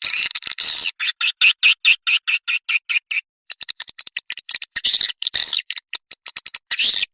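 Swiftlet lure call: high twittering chirps of swiftlets, broken in the first few seconds into rapid pulses about eight a second, a brief pause just after three seconds, then more chirps and pulses.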